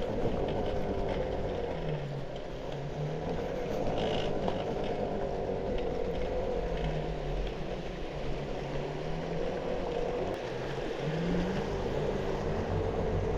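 A vehicle driving: a steady rumble of engine and road noise, with a low engine note that rises and falls now and then.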